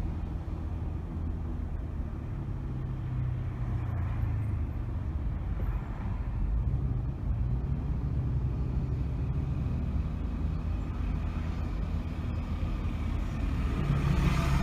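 Car driving through city streets: steady low engine hum and tyre noise, with the engine note shifting as it changes speed and growing louder near the end.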